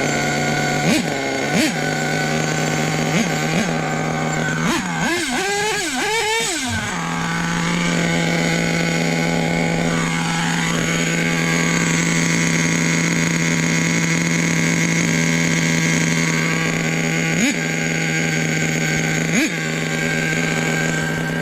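Small nitro RC truck engine running at a high, steady idle, with several short throttle blips and, about five seconds in, a couple of seconds of revs wavering up and down.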